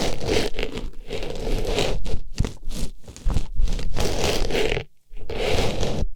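Artificial flower pushed into and rubbed around an ASMR microphone's ear: close, dense rustling and scraping in uneven strokes, with a short pause about five seconds in.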